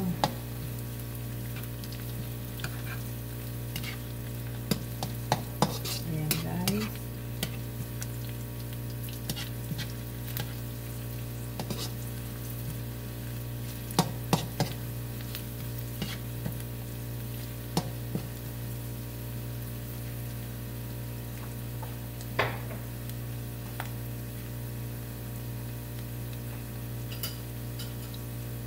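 Pork belly, onions and garlic sizzling in a non-stick wok while a plastic spatula stirs them, with sharp clicks and scrapes of the spatula on the pan, most of them in the first half and fewer near the end. A steady low hum runs underneath.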